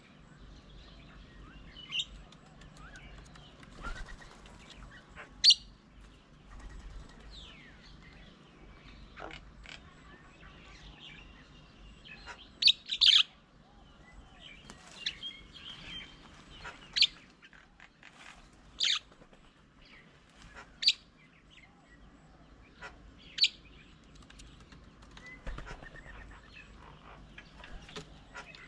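Small birds calling, a series of short, sharp high chirps every two to four seconds with fainter twittering between.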